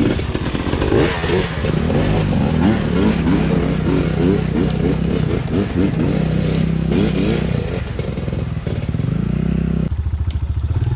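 Dirt bike engine running and revving, its pitch rising and falling, with clatter over it; the sound changes abruptly to a steadier engine note near the end.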